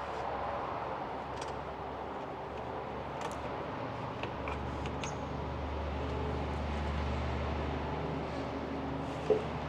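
Steady workshop background noise with a few faint clicks and taps from hoses being pried out of the engine bay. A low hum comes in about halfway, and there is a short sharp knock near the end.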